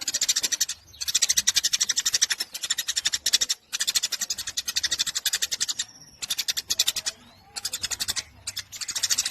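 Eurasian tree sparrow chattering nonstop in fast runs of high chirps, about a dozen a second, broken by short pauses.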